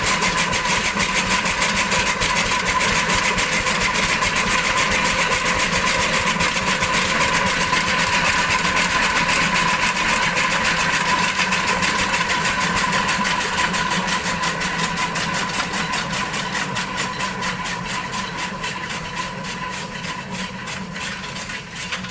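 12 HP Lister diesel engine running with a fast, even beat. About two-thirds of the way through it begins to slow and fade as it winds down.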